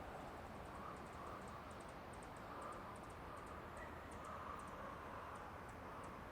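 Forest ambience: a soft steady hiss with faint, irregular high-pitched ticks, several a second, over soft calls in the middle range.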